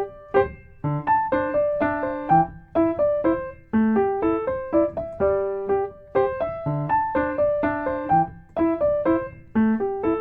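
Solo piano music: a gentle melody of single notes over occasional low bass notes, at a steady unhurried pace.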